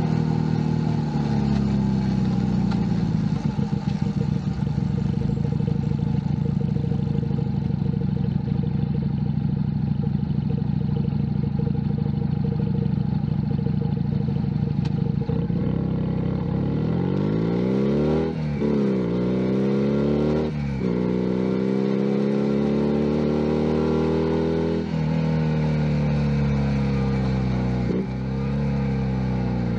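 Junak M11 Cafe 125cc single-cylinder motorcycle engine, heard from the rider's position. It runs at a steady speed for about the first half, then pulls away through the gears: the revs climb and drop sharply at each of about four gear changes.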